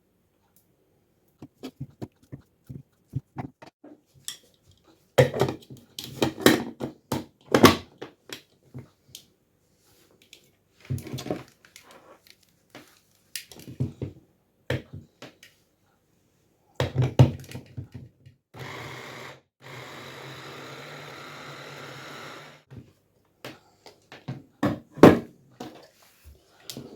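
Kitchen knocks and clatter of bananas being cut up and handled, then an electric food chopper or blender runs steadily for about four seconds past the middle, chopping the bananas.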